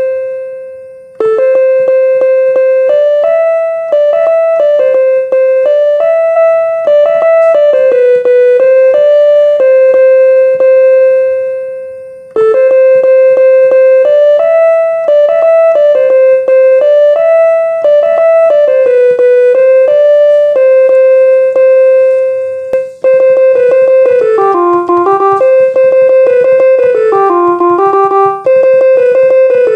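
Background music: a simple piano or electric-piano melody playing in short repeated phrases of single notes.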